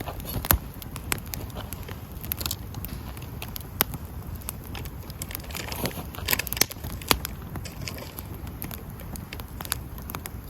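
Wood campfire crackling, with irregular sharp pops and snaps of burning wood over a steady low background. A cluster of louder snaps comes about six to seven seconds in.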